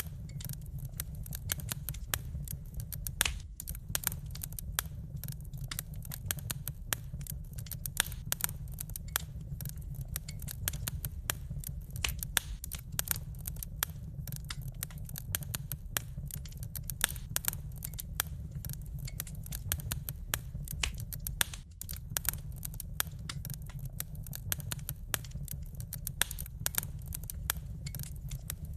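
Wood fire in a fireplace crackling, with dense, irregular snaps and pops over a steady low rumble.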